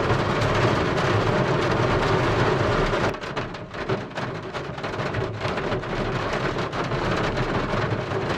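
Heavy rain with a low rumble of thunder. About three seconds in the rumble drops away sharply, leaving pattering rain with many separate drop hits.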